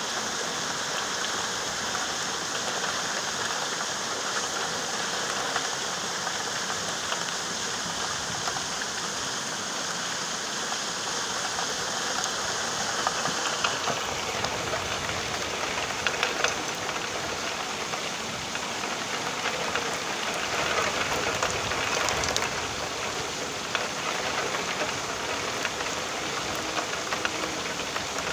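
Steady rain falling: a constant hiss with scattered ticks of single drops. The texture of the rain changes abruptly about halfway through, and it is slightly louder for a couple of seconds after that.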